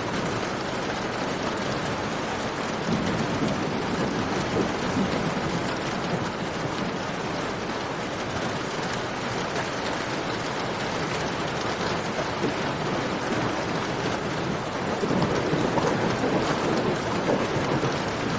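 Steady rain, a dense even wash of falling water, swelling louder about three seconds in and again near the end.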